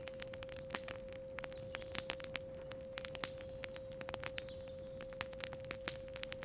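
Wood fire crackling with irregular sharp pops, over a steady pure 528 Hz sine tone.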